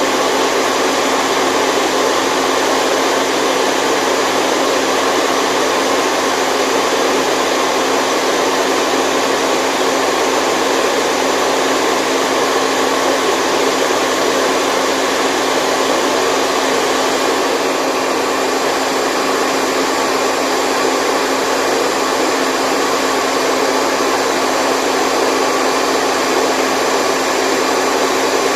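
Continuous white noise: an even rushing with a low steady hum beneath it, unchanging in level.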